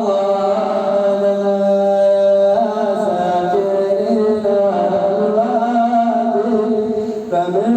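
A man singing an Arabic devotional nasheed in long, held, ornamented notes that glide slowly from pitch to pitch, over a sustained low drone.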